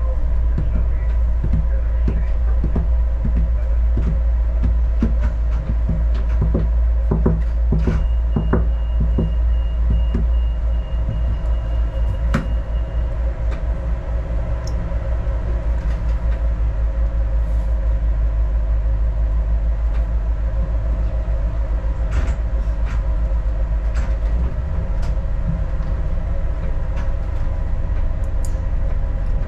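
Adelaide Metro diesel railcar running along the track, heard from inside the carriage: a steady low engine and rail rumble. Frequent clicks and knocks from the wheels over rail joints come through the first ten seconds or so, then grow sparse.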